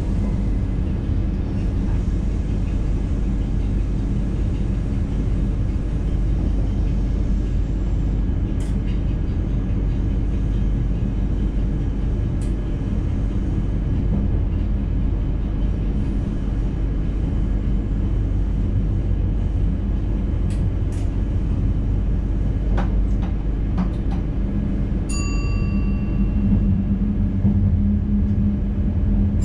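Dutch intercity train running, heard from inside the driver's cab: a steady low rumble with a few faint clicks. A single chime rings out about 25 seconds in.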